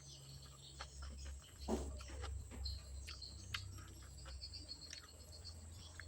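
Faint close-up eating sounds: chewing and mouth smacks, with a scattering of small clicks spread through.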